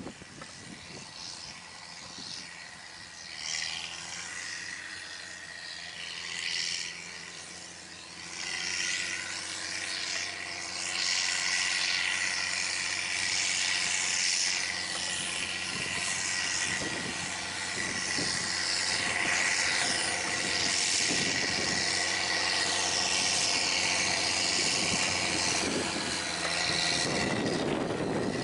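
An engine running steadily with wind rushing over the microphone, growing louder about eight seconds in and then holding.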